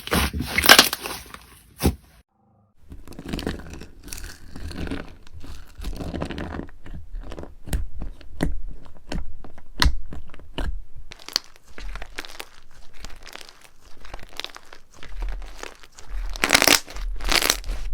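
Slime being squished and pulled by hands close to the microphone: a run of crunchy crackles and sticky tearing pops, with a brief silent break about two seconds in and louder crackling near the end.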